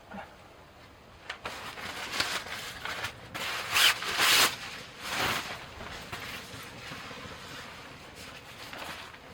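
Rustling and rubbing noises in a run of bursts, loudest about four seconds in, then fading to a quiet background.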